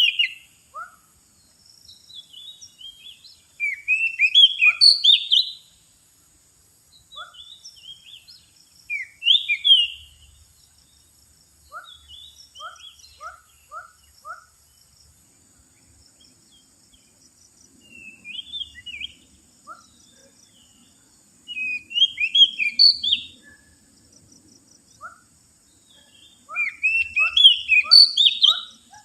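Oriental magpie-robin (kacer) singing in loud bursts of varied whistled phrases every few seconds, with runs of short, lower notes between them, as used for a song lure.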